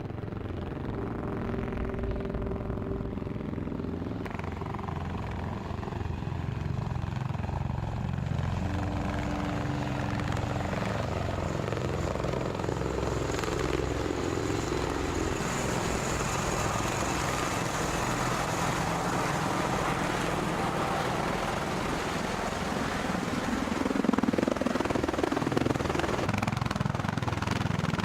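Aircraft jet engines running: a steady rumble with a high whine in the middle, growing louder near the end.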